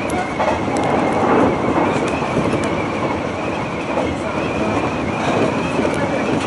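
Hanshin Railway rapid express train running at speed, heard from inside the carriage: a steady rumble of wheels on the track with a faint wavering high whine.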